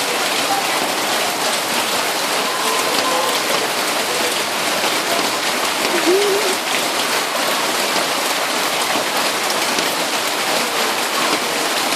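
Rain pouring steadily, an even hiss of drops hitting surfaces.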